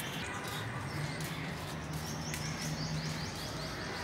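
Outdoor background noise with a low steady hum; from about halfway in, a bird gives a fast run of short, high, descending notes, about six a second.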